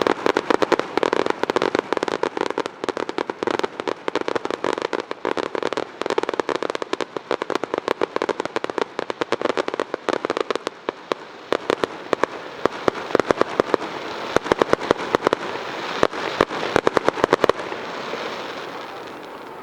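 Fireworks going off in a dense run of rapid crackling pops over a steady rush, the crackle thinning and dying away near the end.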